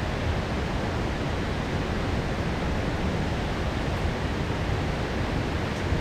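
Heavy downpour of rain, a steady even rushing hiss.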